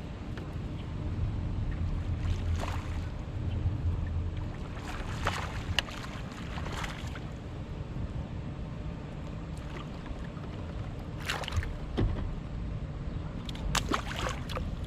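Kayak on the water: water sloshing against the hull and low wind rumble, with a few short irregular splashes or knocks.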